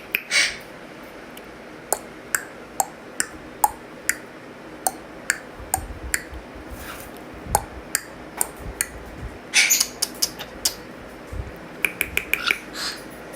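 Irregular series of sharp clicks, some single and some in quick runs of three to five, several with a short pitched ring, and a few soft low thumps in the middle.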